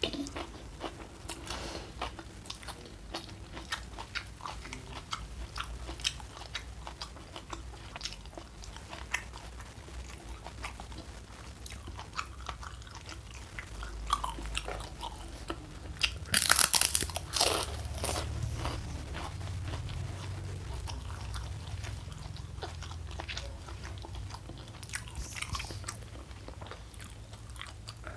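Close-up eating sounds: steady chewing with frequent small crunches, and one loud, crisp crunching bite about sixteen seconds in.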